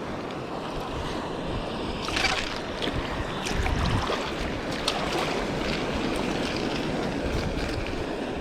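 Ocean surf washing against shoreline rocks, with wind on the microphone. The wash swells a couple of times, and a few faint clicks sound over it.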